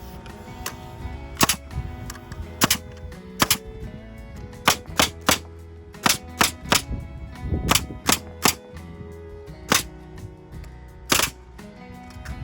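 Wood being nailed together: about fifteen sharp, irregularly spaced strikes, some in quick runs of two or three, over background music.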